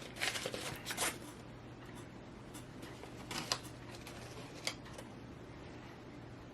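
Takeout bag and food packaging rustling and crinkling as it is handled, busiest in the first second, then a few single crinkles about two and a half, three and a half and four and a half seconds in.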